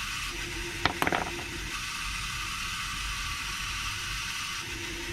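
Water softener running, really loud: a steady hiss with a low hum that cuts in and out. About a second in, a quick cluster of sharp clicks.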